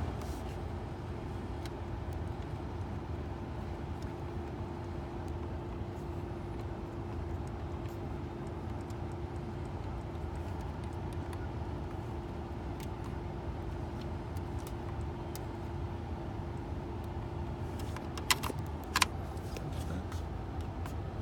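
A 2010 Ford Expedition's heater and AC blower fan running steadily, heard from inside the cabin, with a steady hum that stops about 18 seconds in, followed by a few sharp clicks from the dash controls.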